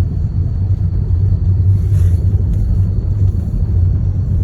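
Steady low rumble of a car's road noise heard from inside the cabin.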